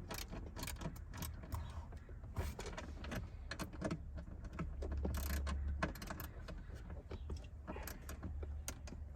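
Irregular light metallic clicks and clinks of hand tools and small bolts being handled while a seatbelt part is fitted into a car. There is a denser stretch of rustling and clatter about five seconds in.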